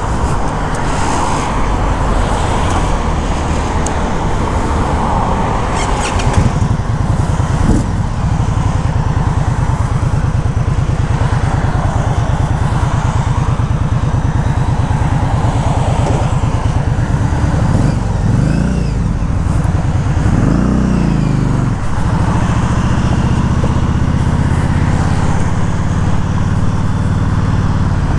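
Indian motorcycle's V-twin engine idling with an even pulse, then revving up twice about two-thirds of the way through as it pulls away, settling into a steady run. Freeway traffic noise runs underneath, loudest in the first few seconds.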